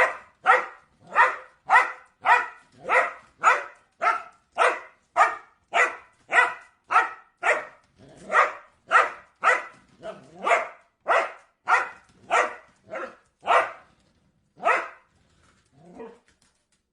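A dog barking in a steady run of short barks, a little under two a second, then slowing to a couple of spaced barks and a last fainter one near the end.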